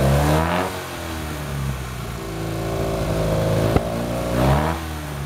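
Tuned 704cc Fiat 500 two-cylinder engine, Abarth-style, being revved by hand at the carburettor. It blips up and falls back at the start, idles briefly, holds a raised speed for about two seconds with one sharp click, then blips again and drops back to idle near the end.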